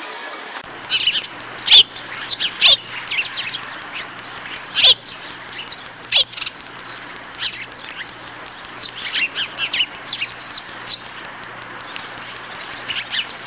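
Birds chirping: many short, sharp calls that drop in pitch, thickest in the first five seconds and again near the end, over a faint steady low hum.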